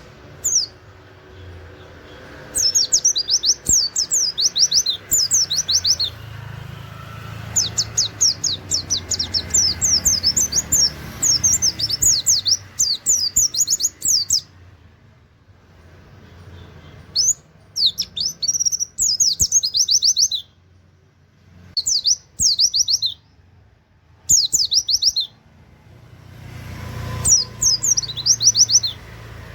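A white-eye (pleci) singing its rapid-fire song: quick runs of high, sharply sweeping chirps delivered in bursts of a few seconds, broken by short pauses. Under the song runs a faint low hum.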